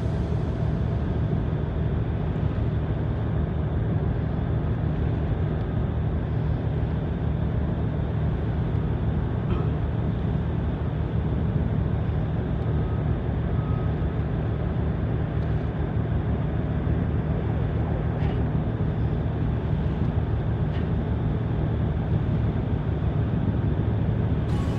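Tugboat's diesel engine running at a steady speed: a low, even drone with a hiss of noise over it.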